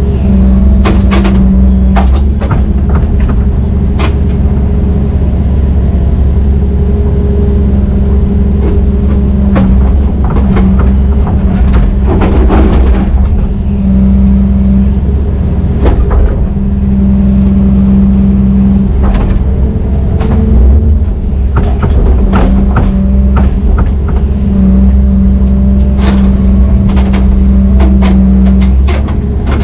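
Heavy diesel engine running hard with a deep steady drone, its load rising and easing several times. Repeated sharp metallic clanks and knocks come through over it, in clusters.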